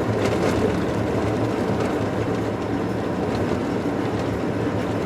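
Steady road and engine noise inside a moving car's cabin: an even rumble with a low hum.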